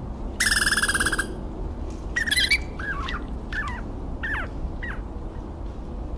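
Squirrel calls: a rapid buzzing chatter of under a second, then five short squeaky chirps that each fall in pitch.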